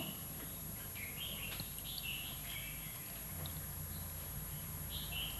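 Small birds chirping now and then, about eight short calls, over a low steady hum.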